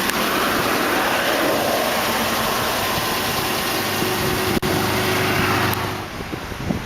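Motor vehicle noise: a loud, steady engine hum under a wash of road noise, which eases off near the end.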